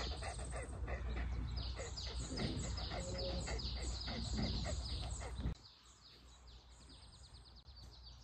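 Birds chirping in quick, repeated falling notes over a steady low rumble. About five and a half seconds in, the sound drops abruptly, leaving only faint, sparse chirps.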